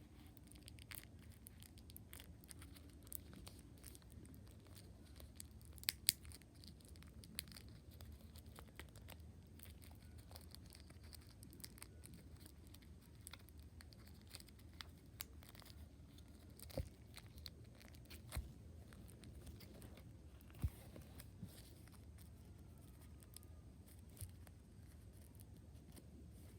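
Packaging being opened and handled: scattered clicks, taps and crinkles of cardboard and plastic, the sharpest around six seconds in and a few more later, over a faint low hum.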